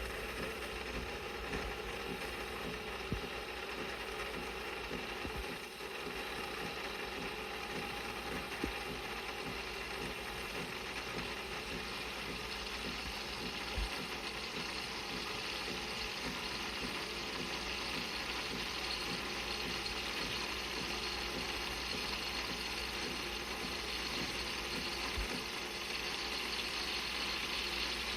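De'Longhi Magnifica Start fully automatic espresso machine running steadily through a cycle, a continuous mechanical whirring and rattling.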